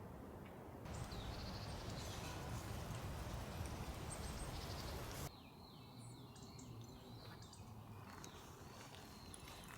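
Outdoor ambience: a steady rush of noise for the first five seconds, then it drops abruptly to a quieter background with small birds chirping.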